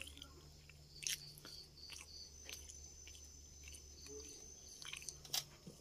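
Faint chewing of roti and chicken keema, with a few soft mouth clicks.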